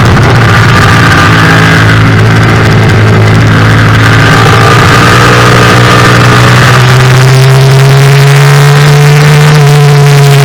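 Yamaha FZ-07 race bike's parallel-twin engine running hard at high revs. The pitch holds fairly steady, then climbs slowly in the second half and eases slightly near the end.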